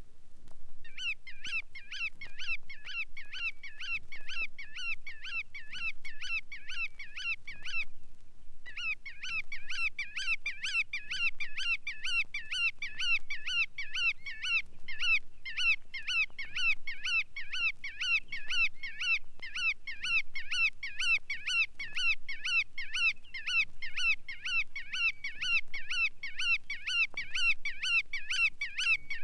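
Bar-tailed godwit calling: a fast, unbroken run of short repeated calls, several a second, with a brief pause about eight seconds in.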